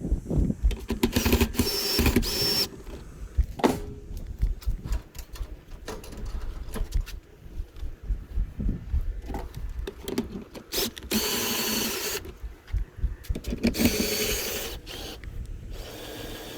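Power drill running in three bursts of a second or two, cranking the camper's jacks, with knocks and clatter in between.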